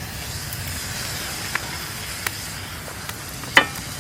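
Wood fire burning in a fire pit: a steady hiss with a few sharp crackles, the loudest two close together near the end.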